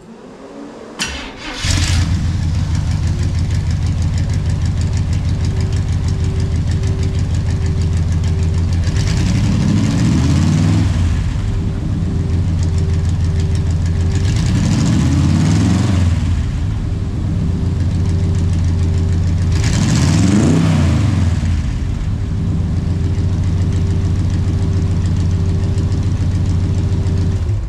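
1974 Corvette Stingray's 350 V8 starting about a second or two in, then idling steadily through its side pipes, with three short blips of the throttle about five seconds apart.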